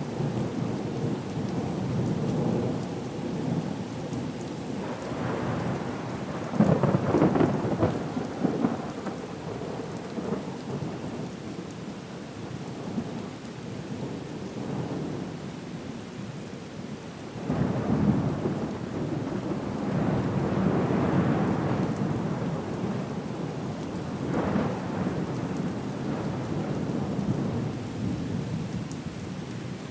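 Storm ambience: steady rain with deep rumbling thunder that swells up three times.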